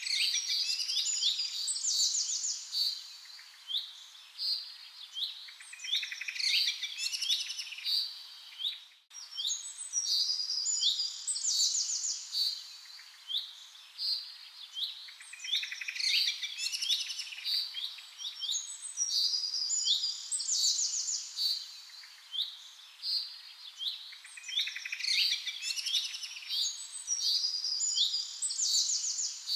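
Several small birds chirping and calling in quick overlapping phrases and fast trills, with a brief dropout about nine seconds in.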